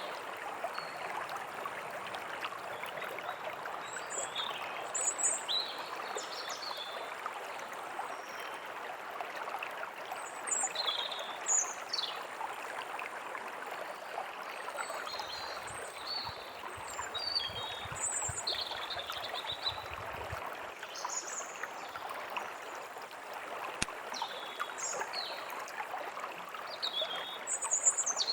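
A stream running steadily, with small birds chirping on and off over it.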